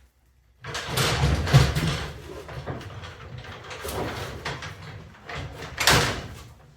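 Junk being moved and dragged about: scraping, rattling and knocking, starting about half a second in, with a louder knock near the end.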